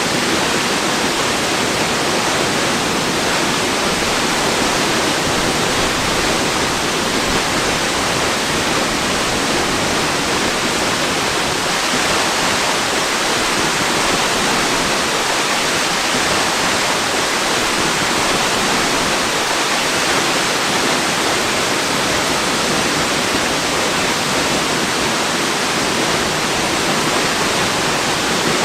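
Waterfall: a steady, unchanging rush of falling water, even and hiss-like with no breaks.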